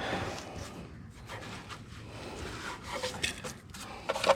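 Scraping and pulling packed grass and clay out from under a riding mower's deck by hand: rubbing and rustling with scattered light knocks on the metal, and one sharper knock near the end.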